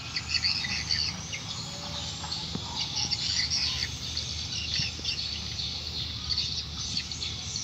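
Small birds chirping, many short repeated chirps over a low steady background rumble.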